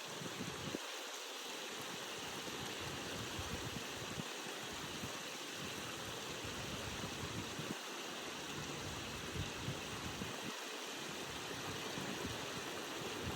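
Steady rushing of flowing stream water, with irregular low rumbles underneath.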